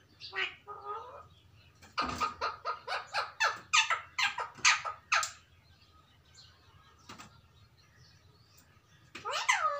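Ringneck parakeets calling: a rapid run of sharp, falling shrieks, about three a second, starting about two seconds in, then a lone call and a longer curving call near the end.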